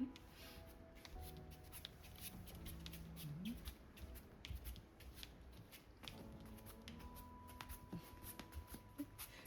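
Quick, light rustling and clicking, like small scrabbles on cloth or paper, over quiet background music.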